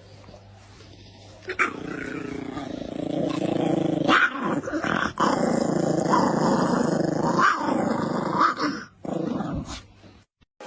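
A dog growling continuously, with a few short barks mixed in. It starts about a second and a half in and stops shortly before the end.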